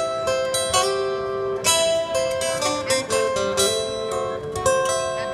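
Acoustic plucked-string instrumental: single notes picked one after another, each ringing on, about one new note every half second to second, with no singing.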